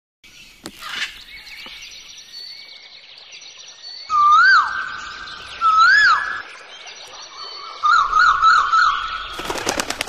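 Birds calling among trees: layered high whistles, with two loud whistled calls about a second and a half apart, each rising then falling in pitch. Near the end comes a quick wavering run of notes, then a short burst of sharp clicks.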